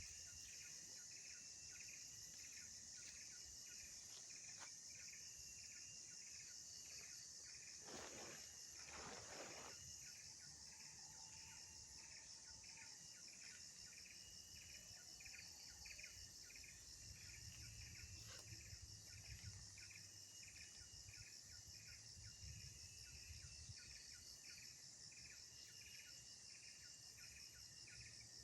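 Faint insects chirping: a steady high trill under a regularly pulsing chirp, with a short burst of noise about eight seconds in.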